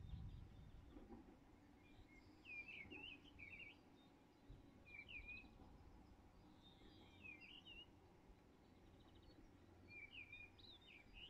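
Faint songbird singing in short, quick warbled phrases, about four of them a couple of seconds apart, over a low rumble near the start.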